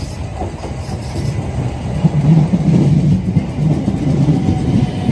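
South Western Railway electric multiple unit running into the platform and passing close by: a rumble of wheels and motors, with wheel clatter on the rails, growing louder over the first two seconds and then staying steady.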